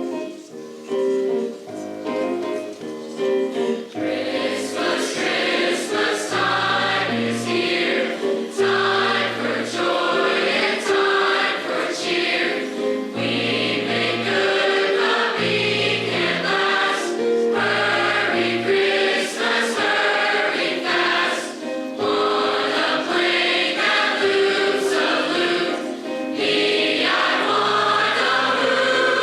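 High school choir singing a concert piece with piano accompaniment. The piece opens with a short, thinner stretch before the full choir sound fills in about four seconds in.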